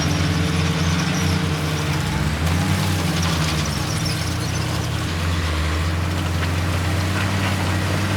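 Heavy diesel engine of earthmoving machinery running under load, its pitch shifting up and down a few times and dropping lower about four seconds in.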